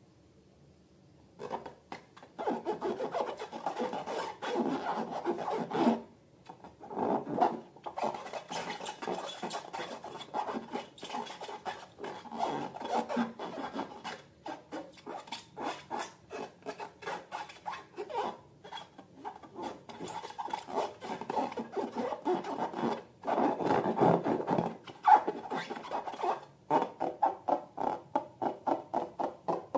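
Slime being worked by hand: a dense crackling and rubbing with many small clicks, starting after a brief silence. Near the end it turns into a regular pumping of about four presses a second.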